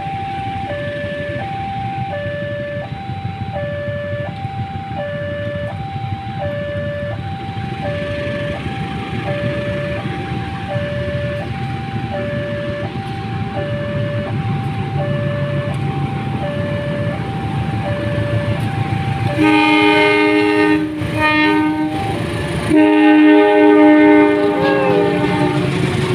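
A two-tone electronic warning alarm alternates steadily between a lower and a higher note while an approaching diesel-electric locomotive's engine rumble builds. About two-thirds of the way in the locomotive sounds its horn in loud blasts, the last one long, and the train begins rushing past near the end.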